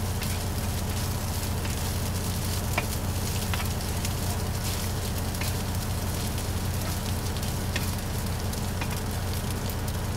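Food sizzling in a frying pan: a steady hiss with scattered small pops and crackles, over a steady low hum.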